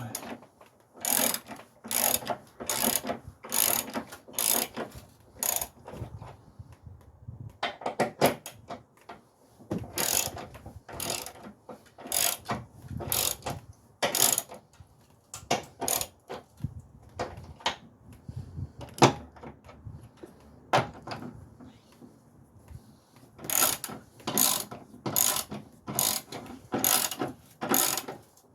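Hand ratchet wrench clicking in repeated back-and-forth strokes, tightening a bolt on a car's motor mount. It comes in several runs of quick strokes, with short pauses between them.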